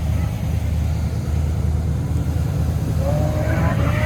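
A car engine running close by, a loud, uneven low rumble at idle. Near the end a faint rising whine comes in over it.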